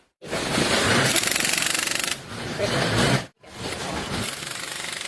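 Workshop power tool rattling rapidly for about a second, among irregular metal clatter, with the sound cut off abruptly twice.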